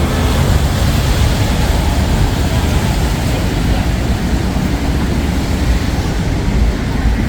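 Steady rumble of city traffic passing, with no single vehicle standing out.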